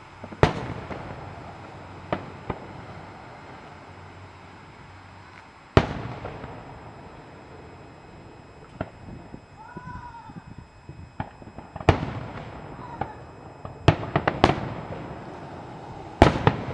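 Aerial fireworks shells bursting, single loud bangs several seconds apart and then a quick cluster of them near the end, each with a short echo after it, and smaller cracks in between.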